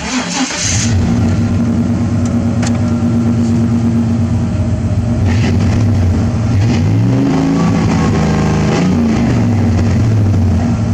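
Chevrolet pickup truck engine starting with a short burst, then running steadily. The engine speed dips and comes back up about seven to nine seconds in.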